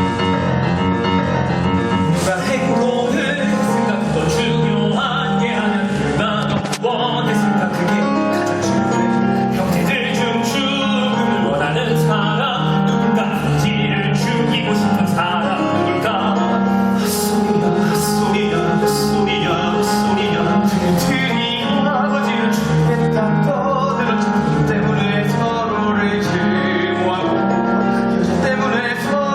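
Male voices singing a musical-theatre number over piano and band accompaniment, with a steady beat.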